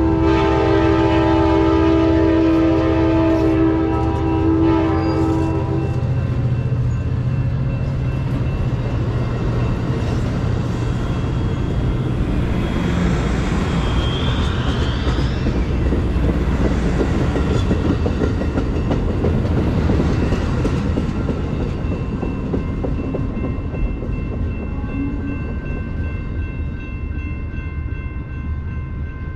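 A train passing close by. The locomotive's horn sounds a multi-note chord until about six seconds in, over the low rumble of the diesel engines. Then the rolling clatter of the wheels on the rails carries on and eases off slightly toward the end.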